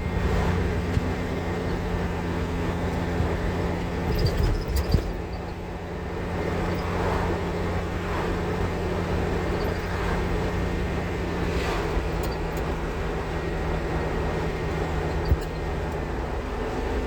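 Steady engine and road noise of a van being driven, heard from inside the cabin, with a low even hum.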